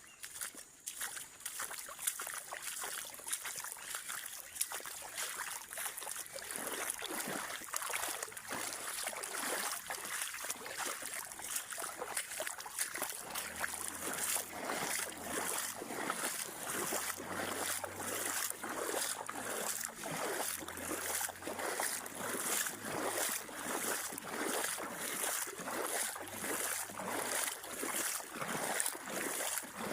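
Rhythmic splashing in water, regular strokes about one and a half to two a second, growing steadier after the first few seconds.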